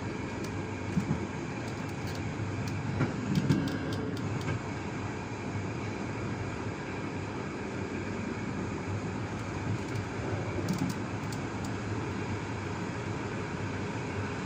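A passenger train's last coach running along the track, heard from inside: a steady rumble of wheels on rails with a few sharp clacks, the loudest about three to four seconds in.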